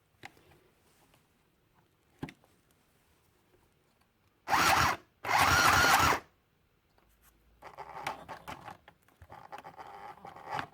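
Small battery-capable mini sewing machine stitching through paper in two short, loud, buzzing runs about halfway in. Fainter clicking and rustling follows near the end.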